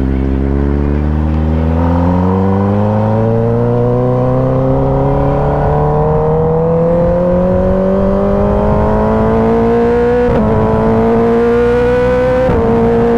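Kawasaki ZX-10R's 1000 cc inline-four engine accelerating, its pitch climbing steadily as the bike gains speed, with two brief dips of an upshift about ten seconds in and again near the end.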